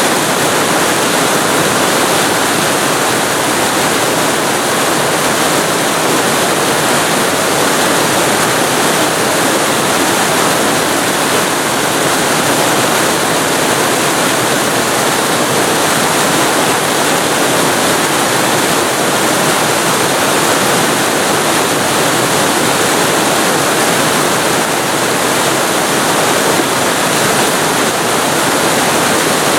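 Waterfall recorded close to the falling water: a loud, steady rush of water with no change over the whole stretch.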